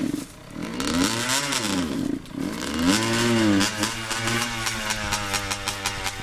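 Dirt bike engine, just started and not yet warmed up, revved twice, rising and falling in pitch with the second rev held briefly, then settling to a steady, pulsing idle about two-thirds of the way in.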